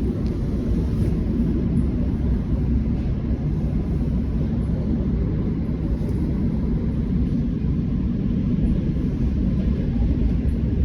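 Steady low rumble of a moving train, even in level throughout.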